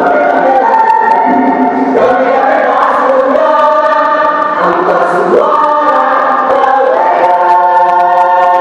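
Mixed choir singing in several parts, moving through sustained chords and settling on a long held chord near the end.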